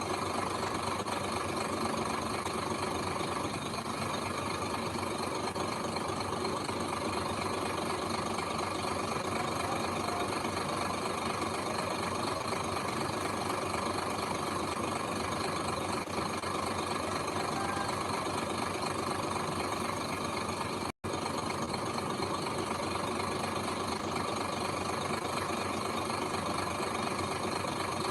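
Heavy diesel machinery engine running steadily, with an instant's break in the sound about three-quarters of the way through.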